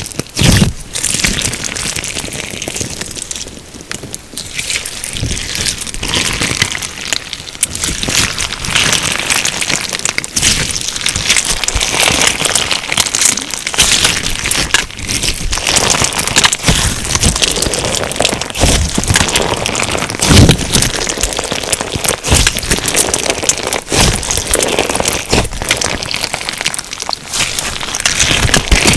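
Hands squeezing and pressing a crunch slime filled with sugar beads, giving a dense, continuous crackling of many small pops and clicks, with a few louder snaps.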